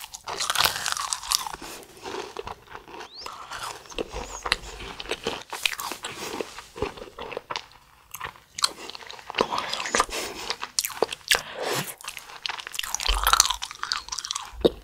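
Biting and chewing a crunchy, crumbly mint cookie close to the microphone: many sharp crunches in quick, uneven succession as it is chewed.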